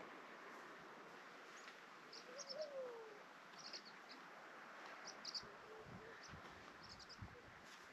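Faint small-bird chirps in short, quick clusters over a steady low hiss of wind. About two and a half seconds in, one longer call rises and then falls, and a few soft low thumps come near the end.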